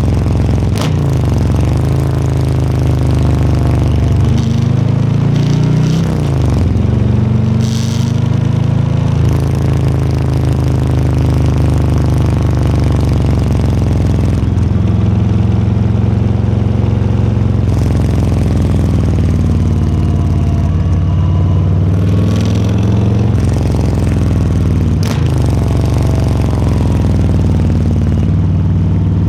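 Harley-Davidson Low Rider S's Milwaukee-Eight 117 V-twin engine running under way, its pitch rising and falling several times with throttle and gear changes. A couple of sharp clicks, around the start and again near the end, stand out over the engine.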